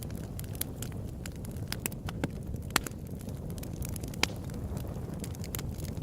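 Open-air wood campfire crackling: a stream of small snaps over a steady low rumble, with two louder pops, one just before the middle and one about two-thirds of the way through.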